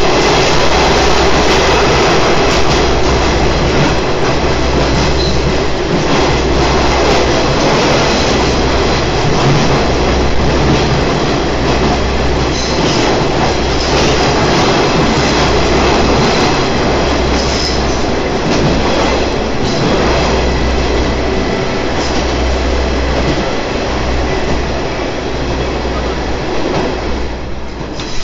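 Torokko Wasshi sightseeing train on the Watarase Keikoku Railway running along the line, heard from on board: a loud, continuous rumble of wheels on rails, with a low throb that comes and goes every second or two. It eases a little near the end.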